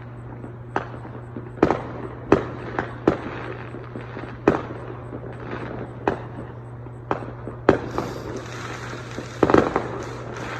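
Fireworks exploding: about a dozen sharp booms and bangs at irregular intervals, with a quick cluster of several bursts near the end.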